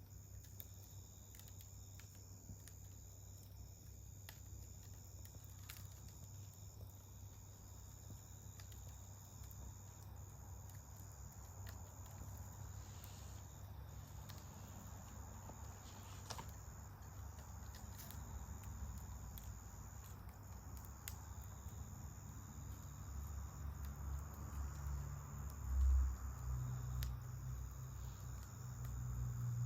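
Crickets singing in a steady high trill, with scattered faint crackles from a wood campfire. A low rumble grows toward the end, with one louder low thump near the end.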